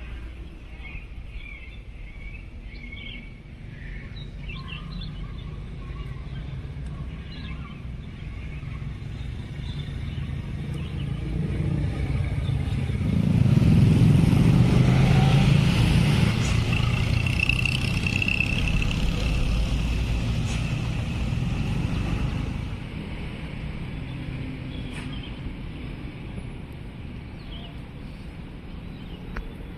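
A road vehicle passes close by: the engine and tyre rumble builds for a few seconds, stays loud for about ten seconds, then fades quickly. Birds chirp faintly in the background before it arrives.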